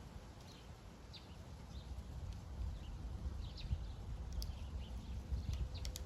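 Faint short high bird chirps scattered throughout, with a few sharp taps, over a steady low rumble.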